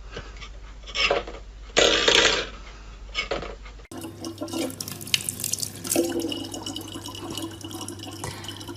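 Two short noisy bursts, then after a cut, water running from a tap into a sink as a steady hiss with a low hum underneath.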